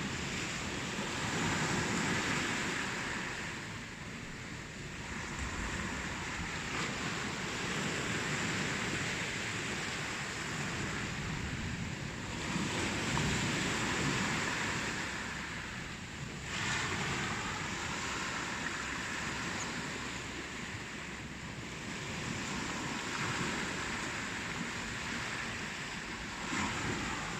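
Ocean waves breaking on a shore in a continuous wash of surf. The noise swells and ebbs as each wave comes in, every few seconds.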